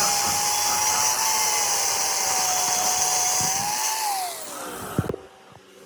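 An electric power tool runs with a steady whine and hiss, then is switched off about four seconds in; its pitch falls as it winds down, followed by a click.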